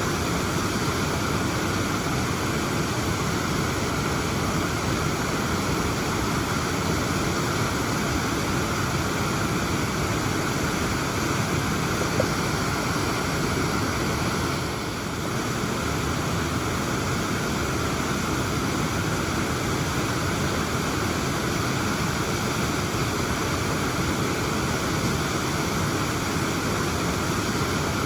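Waterfall rushing steadily, a constant dense roar of falling water, briefly a little softer about halfway through.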